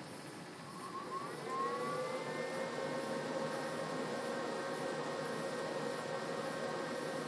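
Microwave oven running from an EcoFlow RIVER Plus portable power station under heavy load: about a second in, a motor whine rises in pitch, then holds as a steady tone over a noisy hum.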